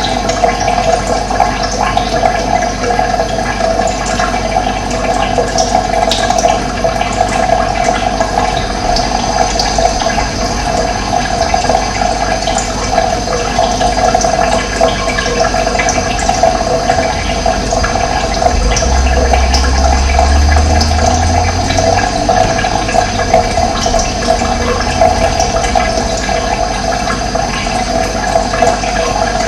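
Steady rush of running water, with faint bird chirps over it. A low rumble comes in for a few seconds past the middle.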